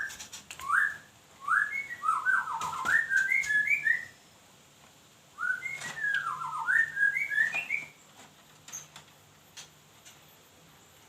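A songbird singing two whistled phrases of clear, upward-sweeping notes, each run ending in quicker, lilting notes. There is a pause of about a second and a half between the phrases, and the song stops about eight seconds in.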